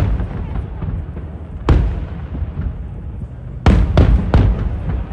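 Aerial fireworks shells bursting, each bang trailing off in a rolling echo over a continuous low rumble. One burst comes about a second and a half in, then a rapid volley of four or five near the end.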